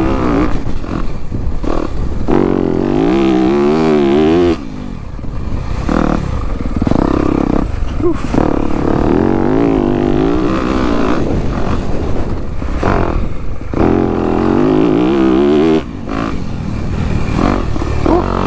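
Dirt bike engine being ridden, revving up and down as the throttle is worked, with the throttle shut off sharply twice, about four and a half and sixteen seconds in.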